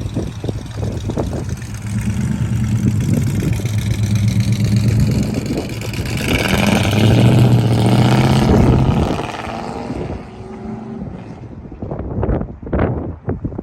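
Car engine driving at low speed, building in load and revs from about six seconds in, then easing off after about nine seconds. Wind buffets the microphone near the end.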